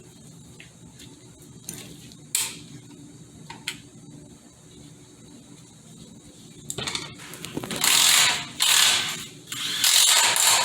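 A ratchet wrench clicking as it is worked in strokes on a transmission part. A few faint ticks come first, then three loud runs of clicking, each about a second long, near the end.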